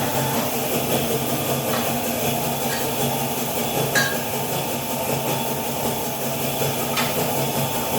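Four sharp metallic clinks of tooling and stainless tube being handled at a tube bender, the loudest about four seconds in, over a steady machine hum.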